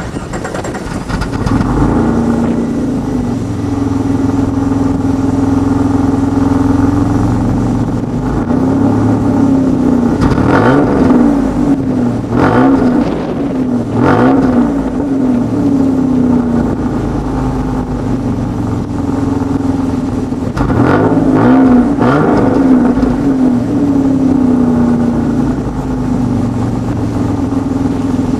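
Chrysler Sebring's Mitsubishi 2.5 L 24-valve V6 engine running steadily, with its revs rising and falling in spells around ten seconds in and again past twenty seconds.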